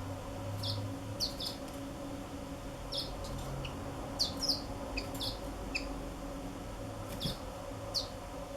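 Black-throated canaries giving short, high chirps that slide downward, about a dozen scattered irregularly, over a steady low hum.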